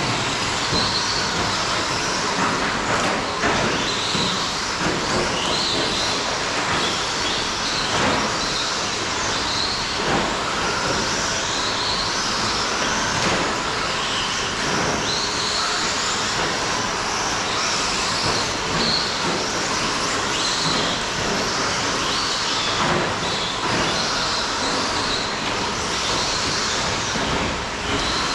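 Several 17.5-class electric RC short-course trucks racing: overlapping high-pitched motor and gear whines rising and falling as they speed up and slow down, with occasional sharp knocks.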